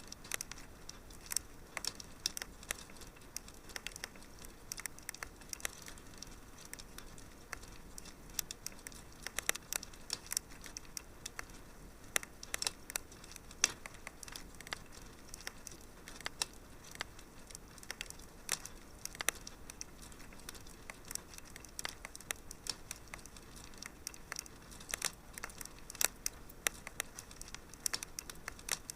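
Wood fire crackling in a fireplace: a steady soft hiss with frequent irregular snaps and pops, some sharper and louder than others.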